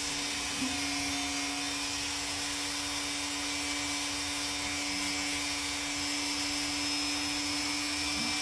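Small rotary nail grinder running at a steady pitch as it files down and rounds off a parrot's nail.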